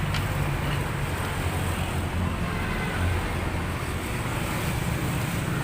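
Steady low mechanical rumble with a constant hum and a haze of background noise.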